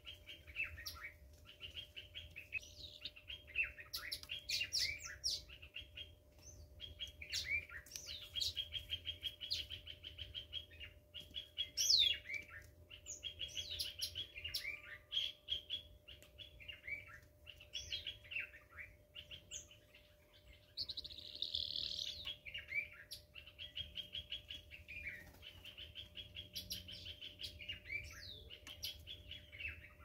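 Several small birds chirping and calling almost without pause, overlapping: rapid rattling trills and short downward-sliding whistled notes.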